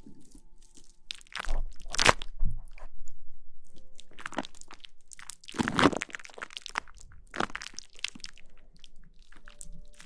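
Close-miked ASMR rustling: crunchy, crinkly noises in irregular bursts, loudest about two seconds in and again about six seconds in.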